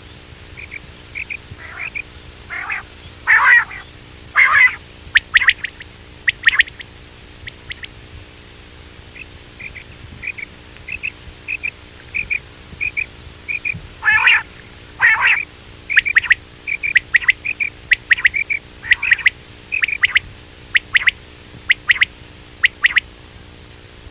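Quail calls: runs of short, high chirping notes, broken by louder, harsher calls that come in pairs about three to five seconds in and again about fourteen seconds in.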